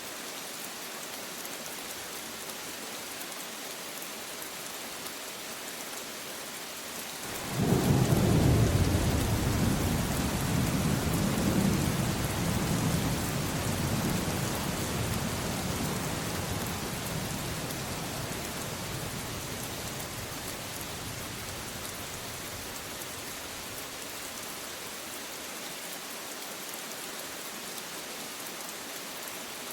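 Steady rain with a clap of thunder about a quarter of the way in: a sudden deep rumble that rolls on and slowly fades away over some fifteen seconds, leaving the steady rain hiss.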